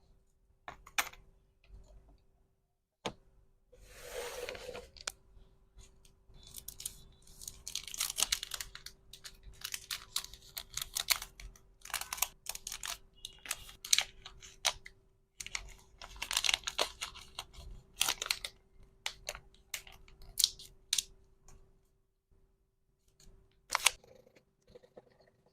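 Packaging being handled by hand for resin hair clips: irregular crinkling and tearing of wrapping, mixed with sharp clicks, in uneven flurries. A faint steady hum runs underneath.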